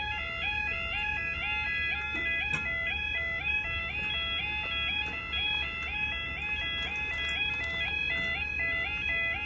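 Level crossing audible warning alarm sounding a steady two-tone warble, stepping between a low and a high note about twice a second.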